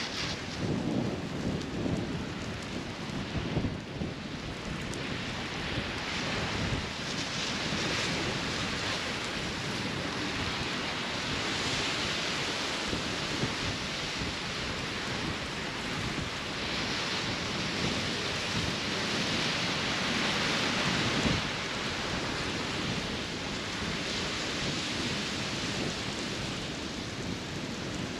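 Wind rumbling on the microphone over a steady rushing hiss. The hiss swells twice, about halfway through and again later.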